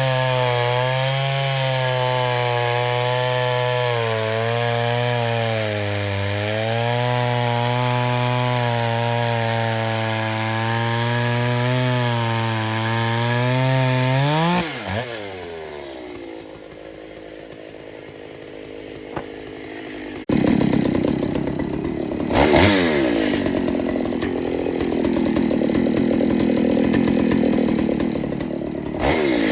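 Pioneer Farmsaw two-stroke chainsaw with a 28-inch bar cutting through wood under load, its engine pitch wavering steadily. About halfway through it drops off to a quieter idle. Some six seconds later it comes back up sharply, revs, and runs loud again in the cut.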